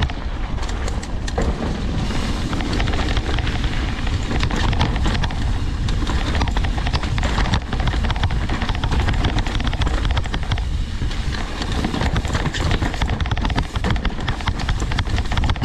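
Mountain bike descending a dirt trail: wind rushing over the microphone, with the steady rumble of the tyres and a constant clatter of small knocks from the bike over rough ground.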